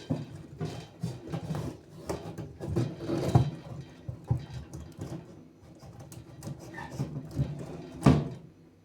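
Firewood being handled and loaded into a wood stove: a run of irregular wooden knocks and thuds, the loudest one near the end.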